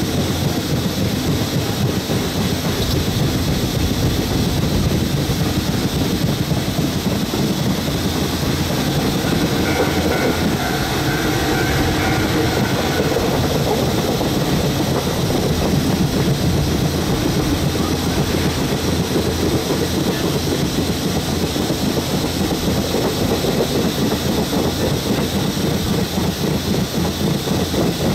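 A passenger train hauled by steam locomotive CT273 running along the line, heard from aboard a coach: a steady loud rumble of wheels on the rails.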